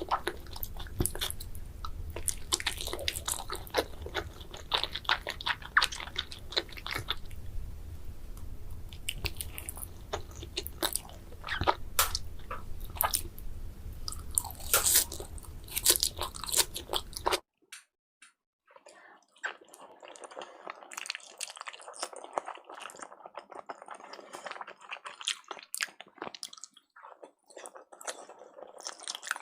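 Close-miked eating sounds: biting and chewing sushi, with crisp crunches and wet mouth clicks. About two-thirds of the way through the sound cuts off abruptly, and after a brief silence quieter, softer chewing follows.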